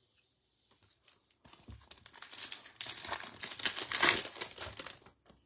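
Foil wrapper of a Topps Chrome baseball card pack crinkling and tearing as it is ripped open, a dense rapid crackle lasting about three and a half seconds, loudest near the end.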